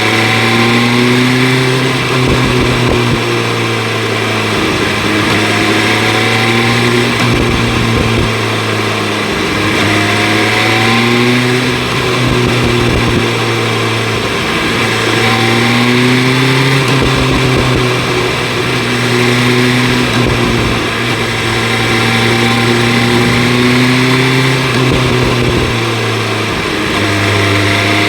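BMW S1000 RR inline-four sport bike engine with an Akrapovic exhaust, running under way: its pitch climbs and falls again and again as the rider rolls on and off the throttle. Steady wind noise sits under the engine note.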